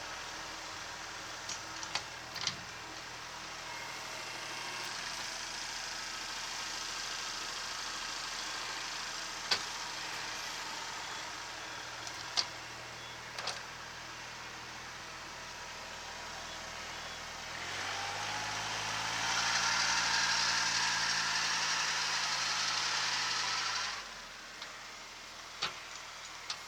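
Kubota SL28H tractor's diesel engine running steadily, with a few sharp clicks and knocks. About eighteen seconds in the engine speeds up and a loud hissing whine joins it for about six seconds, then both drop back abruptly.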